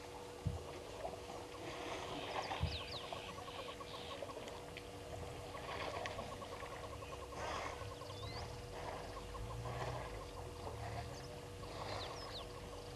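Birds calling around a waterhole: short whistled chirps and sweeps mixed with fast rattling, clucking trills, over a steady electrical hum. Two sharp knocks come in the first few seconds.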